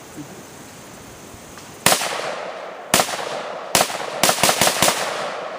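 Firearm shots fired from the hip at a tannerite target: about seven sharp reports with a trailing echo, the first three roughly a second apart, then a quicker run of four. None of them sets off the tannerite.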